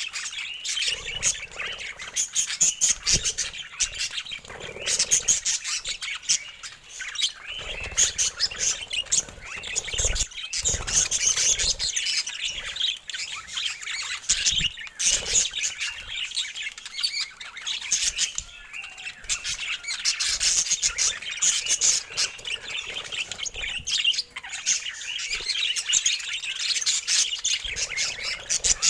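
Pet budgerigars chirping and chattering in a dense, continuous stream of quick calls.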